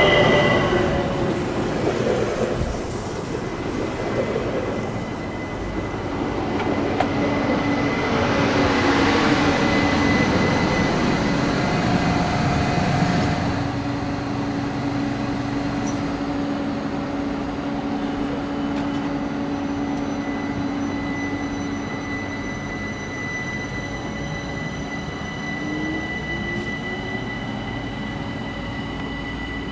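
ÖBB class 4024 Talent electric multiple unit standing at the platform and then pulling away, its electric drive giving a steady hum and whine. A louder rush of noise comes around ten seconds in, and a short rising whine near the end.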